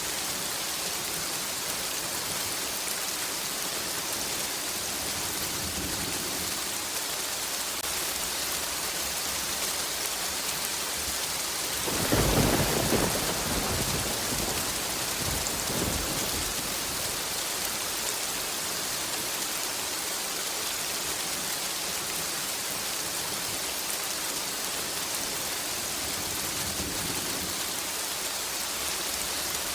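Steady rain hissing, with a clap of thunder about twelve seconds in that rumbles and fades over a few seconds, and fainter low rumbles of distant thunder here and there.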